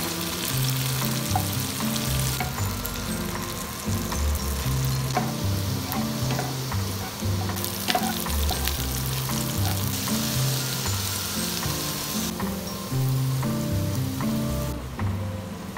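Food frying in hot oil in a nonstick pan, with a wooden spatula stirring and scraping: tofu cubes, then onion and garlic, then pepper and tomato strips. The sizzle steps louder and softer abruptly a few times, with small spatula clicks, and soft music plays underneath.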